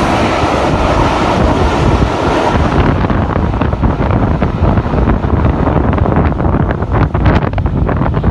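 Steam-hauled express train, 45690 Leander and its coaches, rushing past at speed: a loud rush and rumble, giving way from about three seconds in to rapid clicks of wheels over the rail joints. Wind buffets the microphone.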